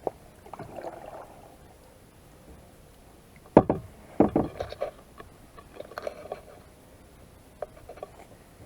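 Kayak paddling: a paddle dips and splashes in the water in uneven strokes, with two loud sharp knocks about three and a half and four seconds in and a few lighter knocks later.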